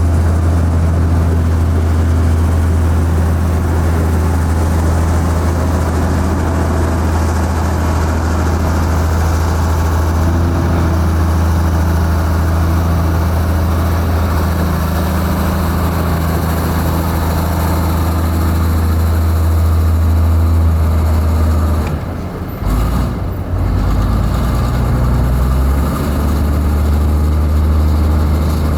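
Heavy diesel engine of construction machinery running steadily with a deep drone, dipping briefly and picking up again a little over 20 seconds in.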